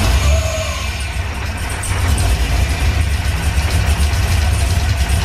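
LS V8 crate engine idling steadily, a constant low rumble with a faint high-pitched whistle from the throttle body. The whistle is normal for this throttle body and intake. Adjusting the throttle set screw has quietened it, since the IAC valve was working too hard.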